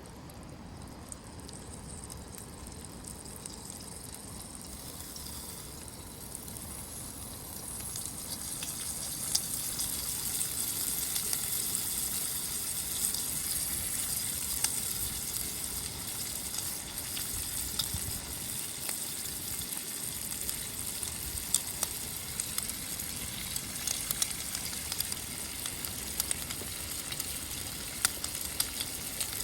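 Bacon sizzling as it fries, with scattered small pops. The sizzle grows louder about eight seconds in.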